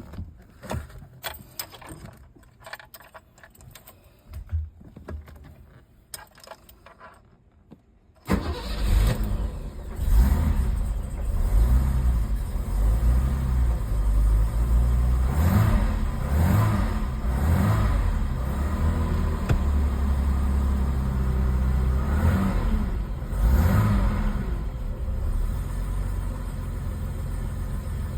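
1982 BMW 528i's straight-six engine started from cold. After about eight seconds of faint clicks and knocks it catches suddenly and runs, with a few brief revs, then settles into a steady idle.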